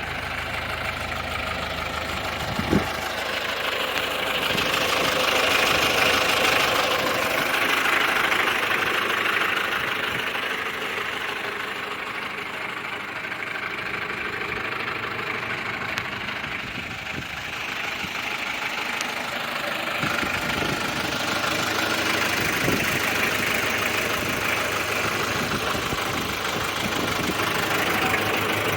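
New Holland 2120 diesel tractor engine running steadily, its sound swelling for a few seconds near the start before settling back. A single sharp click about three seconds in.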